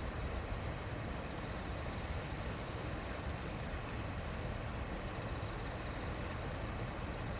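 Shallow river babbling: a steady, unbroken rush of running water.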